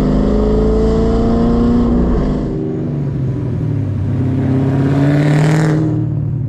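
Pontiac GTO's cammed Texas Speed 408 stroker V8 sounding through a Carven R-Series muffler and Dr. Gas boom tube tip. The engine climbs in pitch, drops back about two and a half seconds in, climbs again, then falls off near the end.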